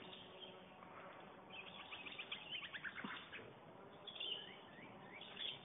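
Small birds chirping faintly: a quick run of repeated chirps about two seconds in, then a few short rising chirps near the end.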